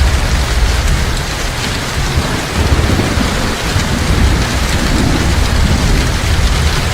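Heavy rain pouring steadily, with a low rolling rumble of thunder that swells and fades underneath it.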